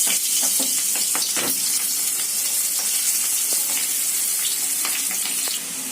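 Potato pieces frying in hot oil in a kadai: a steady sizzle, with a few light clicks.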